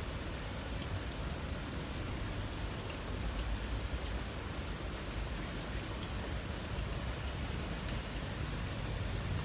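Light rain falling steadily, a soft even hiss with scattered faint drip ticks.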